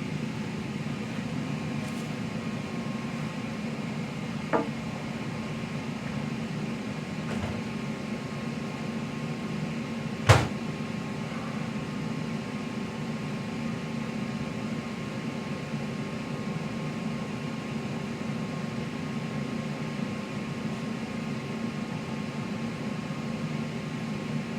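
Steady kitchen appliance hum, with a light click about four and a half seconds in and a sharp, louder clack of a microwave oven door shutting about ten seconds in.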